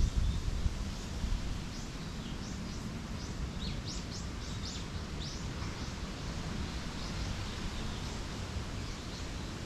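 Small songbirds chirping in a forest, with a quick run of short, high, falling chirps in the middle, over a low rumble of wind on the microphone.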